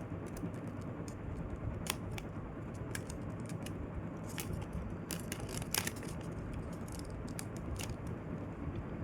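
A sheet of paper being folded and creased by hand: soft rustling with a few sharp, separate crinkles over a steady low hiss.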